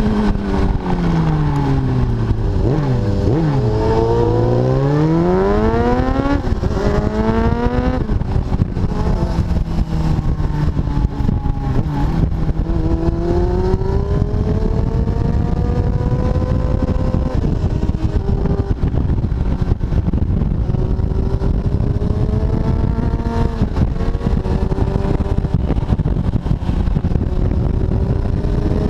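Kawasaki ZX-7R's inline-four engine at track speed over heavy wind rush on the microphone. Its pitch falls over the first few seconds as the bike slows, climbs back up, then rises and holds high with a few dips later on.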